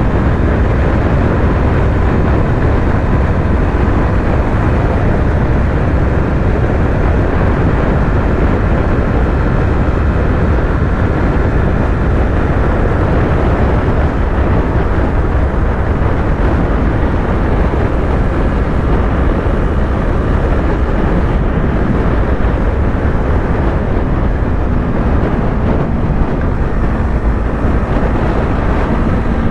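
Yamaha YZF-R3's parallel-twin engine running at a steady highway cruise, mixed with a rush of wind and road noise. The pitch and loudness stay even, with no gear changes or revving.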